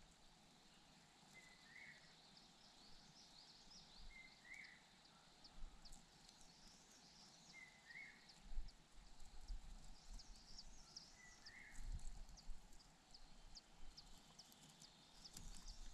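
Faint outdoor ambience: a bird gives a short call about every three to four seconds, with spells of thin, high chirping and a few low rumbles of wind or handling.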